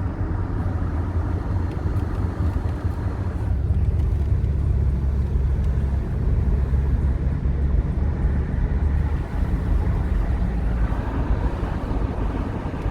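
Car engine and road noise heard from inside the cabin while driving, a steady low hum over tyre rumble. The engine note grows louder for a few seconds in the middle, then settles back.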